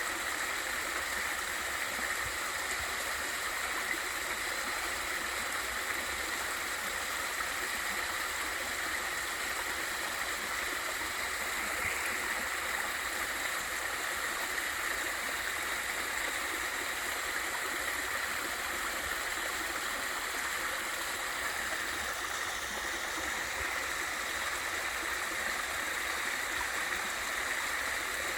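Water of a valley stream and waterfall rushing steadily, an even, unbroken hiss with no single splashes standing out.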